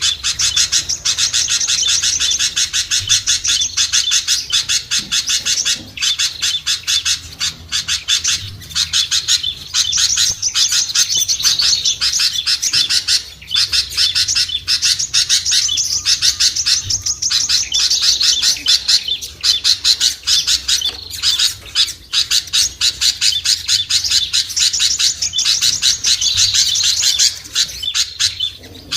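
Dense, rapid chirping and chattering of several small songbirds, repeated almost without pause. It is a noisy bird-lure recording used to call small birds down.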